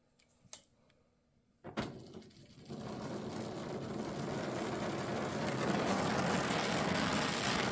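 Gas torch with a brazing tip being lit: a sharp pop a little under two seconds in, then the steady rushing hiss of the flame, which builds up and holds.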